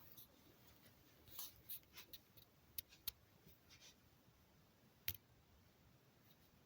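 Near silence with a few faint, scattered clicks and taps; the sharpest come about three seconds in and again about five seconds in.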